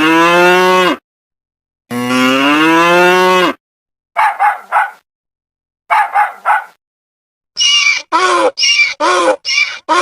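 A cow mooing: two long, loud moos, followed by a series of shorter, quicker animal calls in the second half.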